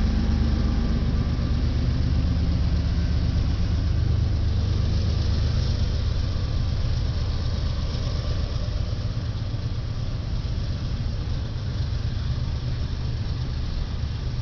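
Diesel-electric locomotive engines running with a steady low rumble that eases off slightly toward the end.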